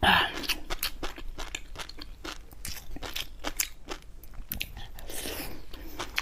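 Crunching and chewing of seafood that is still partly frozen, with many sharp crunches in quick, irregular succession.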